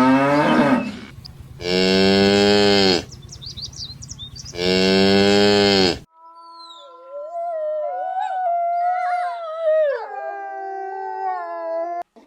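Cattle mooing: the tail of one moo, then two more long, even moos. About six seconds in the sound cuts to a different animal's long, wavering call that slides up and down in pitch.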